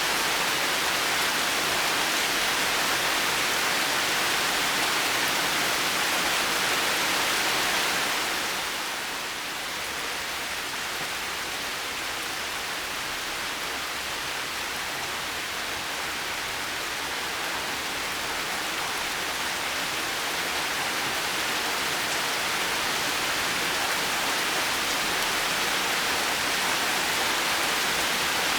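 Heavy rain falling steadily as a dense, even hiss. It eases a little about eight seconds in and gradually builds back up in the last third.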